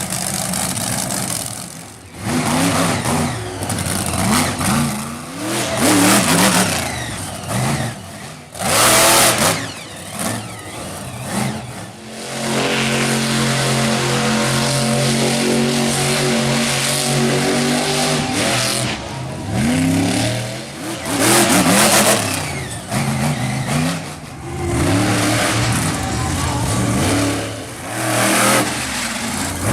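Monster truck engine revving hard, its pitch sweeping up and down again and again, held at a steady high pitch for several seconds in the middle, with several loud surges.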